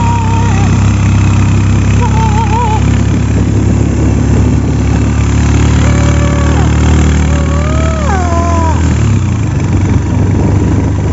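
A vehicle engine running steadily, with a few short wavering higher-pitched tones over it.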